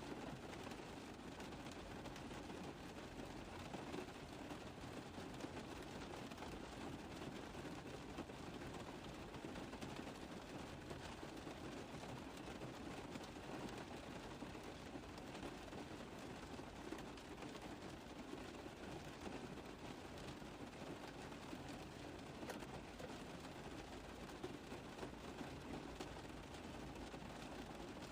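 Steady rain on a car roof: a dense, even tapping of many small drops, with no let-up.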